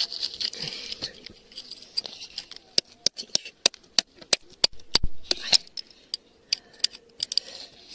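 Irregular sharp clicks and clinks of glass pieces knocking against each other and against stone, with a gritty scraping through soil in the first second or so, as glass gems are dug out by hand.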